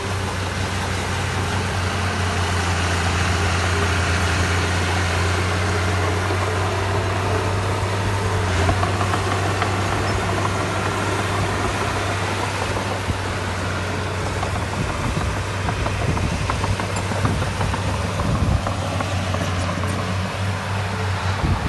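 Diesel engine of heavy construction machinery running steadily with a deep, even hum. From about two-thirds of the way in, irregular knocks and clanks come through over it.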